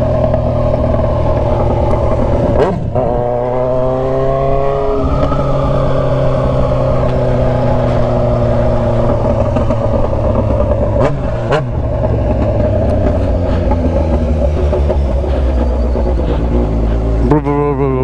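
Kawasaki Z900RS inline-four running loud through an aftermarket Atalla stainless-steel 4-into-1 header and short open 'canela seca' muffler while being ridden. Its pitch rises as the throttle opens about three seconds in, holds fairly steady, and climbs again near the end.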